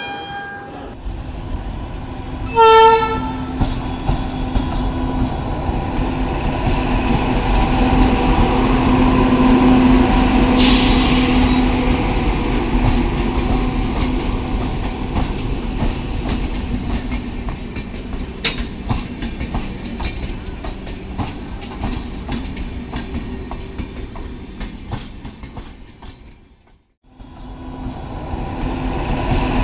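Passenger train running by: a short horn blast about three seconds in, then a steady hum and rumble with a brief hiss about ten seconds in and a run of clicks from wheels over rail joints. The sound drops away for a moment near the end and comes back.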